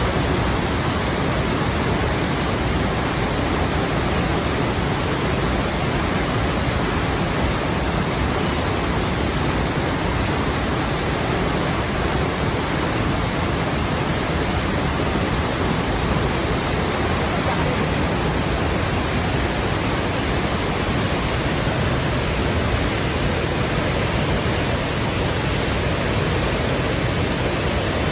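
Steady rushing of flowing water, a continuous even roar that does not change.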